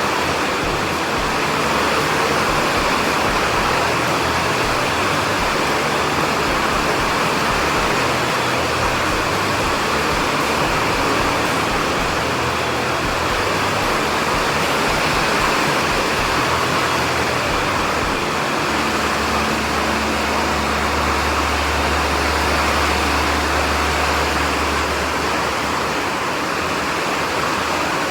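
Steady rushing noise of heavy rain, with a low rumble underneath for several seconds past the middle.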